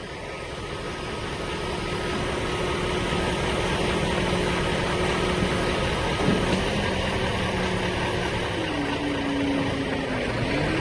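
An engine running steadily under a broad rushing noise, its pitch dipping briefly about six seconds in and dropping lower near the end.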